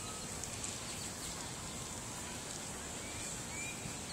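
Outdoor background noise: a steady high-pitched hiss with faint, distant voices and a few light ticks.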